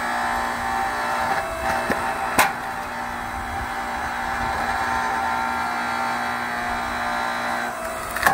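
A powered log splitter runs with a steady hum while dry firewood splits and cracks under it, with a sharp crack about two and a half seconds in.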